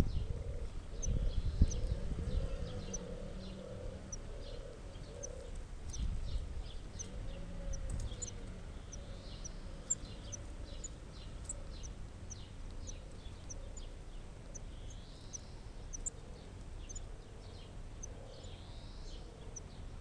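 Birds at a spotted flycatcher nest: short, thin, high chirps repeat about twice a second, broken by a few brief hissy calls. A low cooing wavers underneath through the first half.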